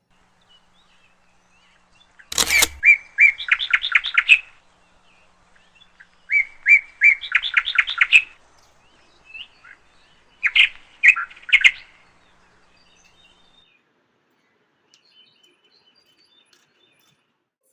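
A songbird calling in three separate bursts of quick repeated chirps, each run speeding up into a rapid series of notes, a few seconds apart.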